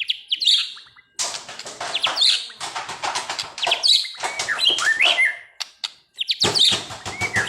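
White-rumped shama (murai batu) singing loudly and continuously in an agitated state, its phrases mixing rapid harsh clicking chatter with short whistled notes that rise and fall. The song comes in three bursts, with brief pauses about a second in and about six seconds in.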